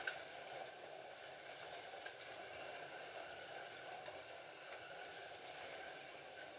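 Scalextric Ford GT40 slot cars lapping a plastic track, a faint steady whir of their small electric motors and wheels. Three brief high beeps sound over it.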